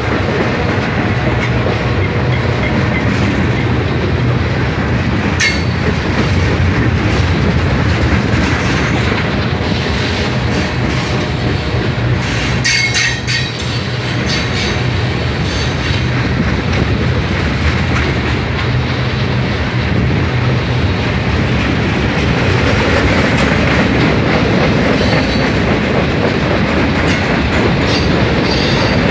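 Freight cars of a Norfolk Southern mixed freight train rolling past, the wheels making a steady rhythmic clickety-clack over the rail joints. A few brief metallic squeals and clanks come from the wheels about five and thirteen seconds in and again near the end.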